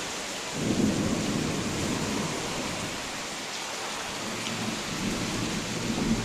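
Thunderstorm with steady heavy rain and low rumbles of thunder: one swells about half a second in and fades over two seconds, and a smaller one comes near the end.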